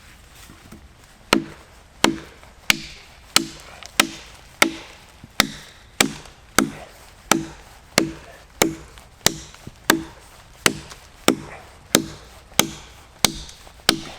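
Small hatchet chopping into a damp log: a steady run of about twenty strikes, roughly one and a half a second, starting about a second in.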